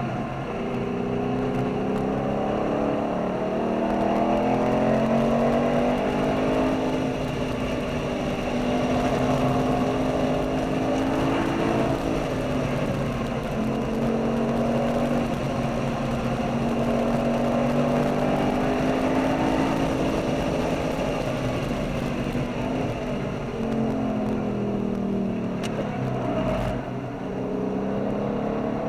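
V8 sports-car engine under hard acceleration, heard from onboard the car. Its pitch climbs slowly through the revs and drops sharply twice at gear changes or lifts, over a steady bed of road and wind noise.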